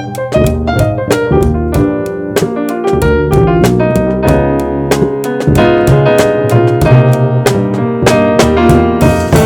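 Jazz trio playing live: keyboard with an electric-piano sound over a walking bass line, with the drum kit keeping time in frequent sharp strikes.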